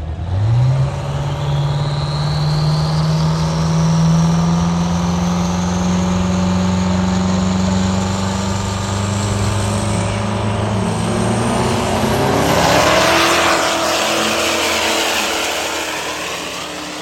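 High-horsepower diesel truck engine under full load, its revs jumping up and then climbing steadily for about ten seconds, with a high whine rising alongside. About twelve seconds in it lets off into a loud rushing noise that slowly fades.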